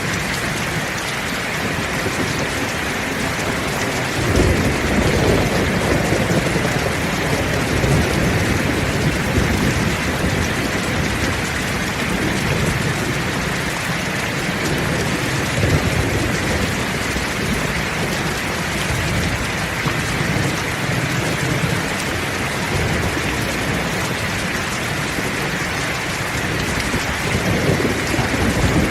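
Heavy rain pouring steadily, with low rolls of thunder rumbling underneath, swelling about four seconds in and again near the end.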